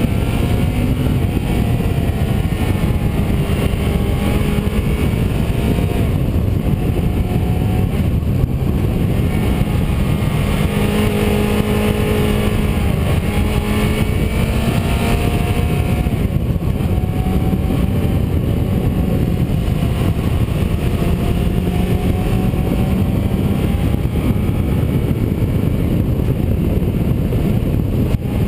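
Car engine driving along a winding road, its pitch rising and falling over the whole stretch as it speeds up and slows for the bends, under a loud steady rush of wind and road noise.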